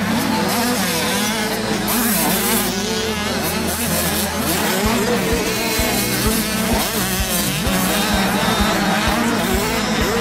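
Several 85cc two-stroke motocross bikes racing, their engines revving up and down over one another. From about halfway through, a low thump repeats roughly twice a second.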